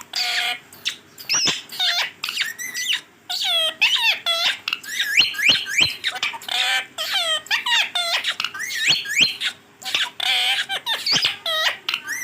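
Green ringneck parakeet calling and chattering: a rapid run of short squawks and whistled chirps that sweep sharply up and down in pitch, several a second.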